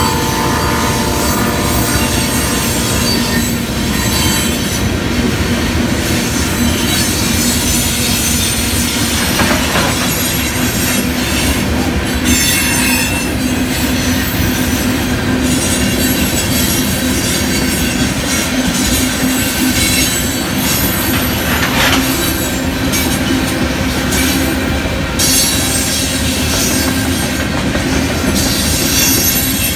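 A train passing close by: a loud, steady rumble of wheels on the rails, with thin high-pitched squealing tones from the wheels coming and going.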